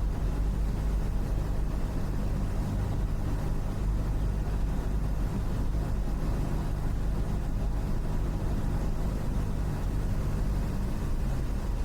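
Cessna 172's single piston engine and propeller running steadily in flight, a constant low drone heard from inside the cockpit.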